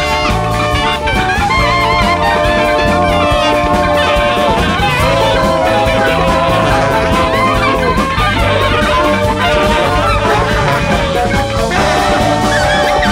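Live large jazz band: a horn section of saxophones and trumpet holds long notes that change every second or two over a steady drum-kit beat and bass.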